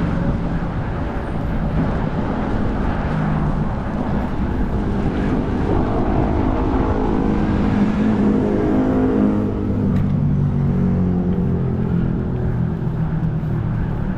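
Road traffic close by: motor vehicle engines running over a steady rumble of tyres and road noise, with one vehicle passing loudest about eight seconds in.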